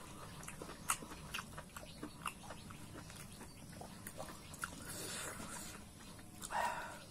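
Close-up eating sounds: wet chewing and mouth clicks of curry and rice eaten by hand, with fingers squishing rice into the gravy on the plate, and one louder wet smack near the end.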